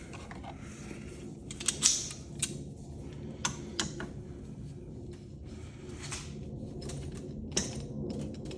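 Irregular clicks and clanks of metal parts and tools being worked while taking apart an old ceiling fan, the sharpest a few seconds in and one more near the end.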